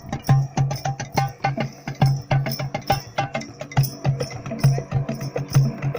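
Percussion music: a steady, fast drum rhythm of deep low strokes about three a second, filled in with sharp, dry slaps and clicks between them.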